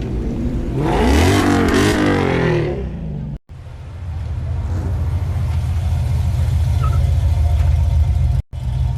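A car engine revs up and down in a loud burst about a second in. After an abrupt break, a deep engine rumble runs steadily and slowly gets louder.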